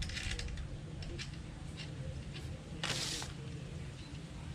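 Hand work on motorcycle parts: scattered small clicks and taps of parts being handled and fitted. About three seconds in there is a short scraping rustle, and a steady low hum runs underneath.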